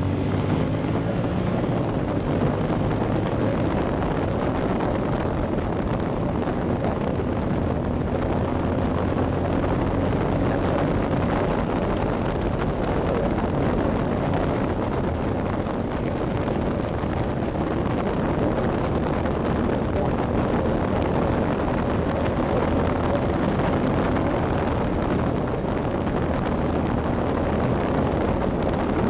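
An engine running steadily under heavy wind noise buffeting the microphone, as from a moving vehicle.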